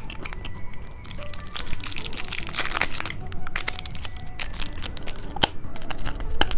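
Plastic candy packaging crinkling and tearing as a novelty candy is handled and unwrapped, with scattered sharp plastic clicks.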